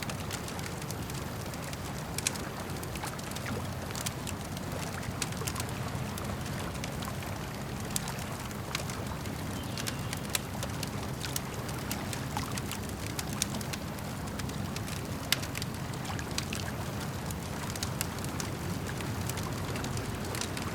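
Campfire crackling, with many scattered sharp pops and snaps, over the steady low sound of lake water moving against the shore.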